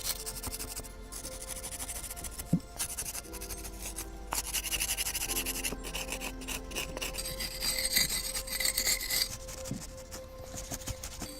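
Repeated rough scraping or rubbing strokes on a hard surface, over soft background music.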